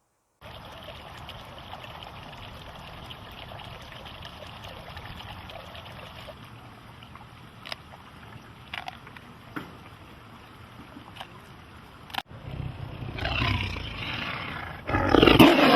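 Steady background noise with a few faint clicks, then a tiger growling in the last few seconds, loudest near the end.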